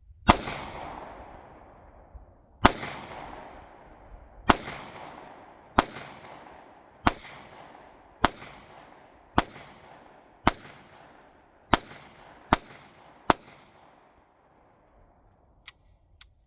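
Eleven single gunshots fired one at a time at a steady, unhurried pace, each followed by an echo that rolls away; then two faint clicks near the end.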